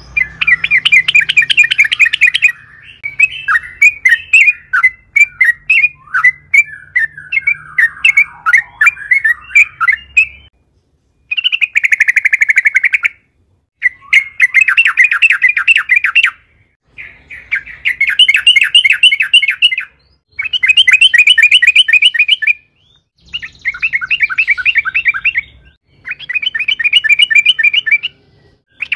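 Yellow-vented bulbul (trucukan) singing: varied, fast chattering at first, then a string of rapid rattling trills, each about two to three seconds long and broken by short pauses.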